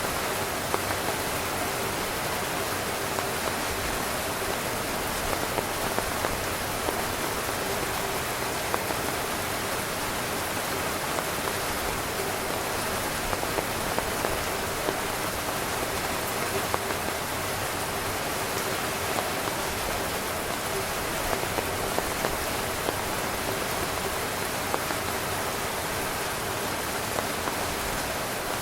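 Steady rain falling on a tent, a continuous hiss with many irregular drop taps on the fabric.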